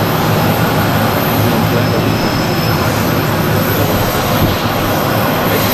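Jet airliner engines running with a loud, steady rumble and hum.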